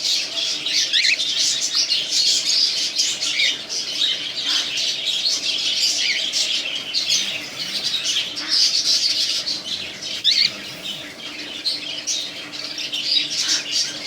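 Several cockatiels squawking and chattering without pause, their calls overlapping, with short chirps among them.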